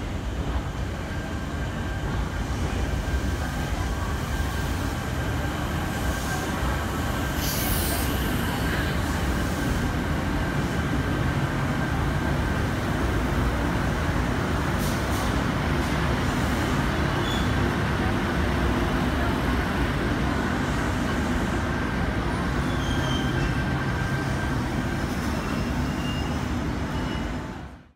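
Sydney Trains C-set stainless-steel double-deck electric train pulling into an underground station platform. Its running rumble echoes off the station walls, with a thin steady whine over it that fades out near the end and a few short high squeals.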